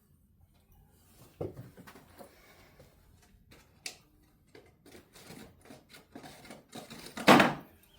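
Handling noise on a workbench: scattered light knocks and clicks as the guitar and tools are moved, with one louder knock about seven seconds in.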